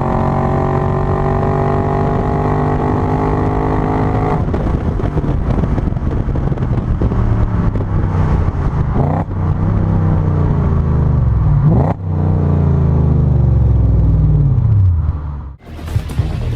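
Audi S4 B6's V8 through a full catless, non-resonated Milltek Sport exhaust, held at steady revs at first, then revving: the pitch climbs and drops sharply twice, holds, and falls away near the end.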